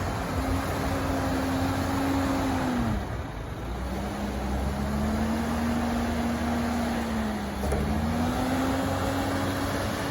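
An engine running under changing load. Its pitch holds, drops about three seconds in, climbs slowly, dips again near eight seconds, then rises.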